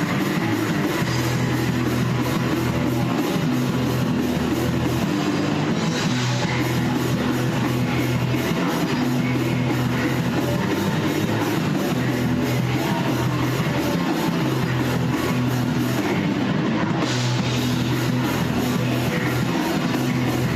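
Rock band playing a heavy instrumental passage with distorted guitar, bass and drum kit, recorded in rehearsal.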